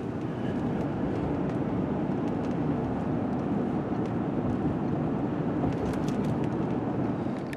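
Steady engine and road noise of a truck driving along, with no changes in pitch or level.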